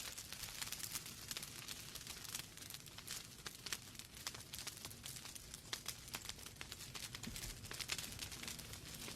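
Wood fire crackling in a fireplace: a constant scatter of small sharp snaps and pops from the burning logs over a soft low rumble of the flames.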